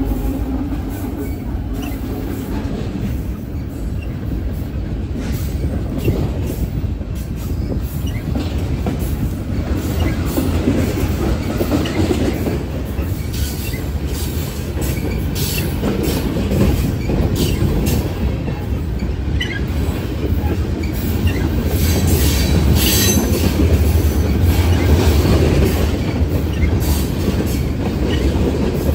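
Freight train passing at close range: a locomotive's engine hum fades away in the first second, then boxcars roll by with a steady rumble of steel wheels on rail. Scattered clicks come from the wheels over the rail joints, and there are brief high wheel squeals a little over two-thirds of the way in.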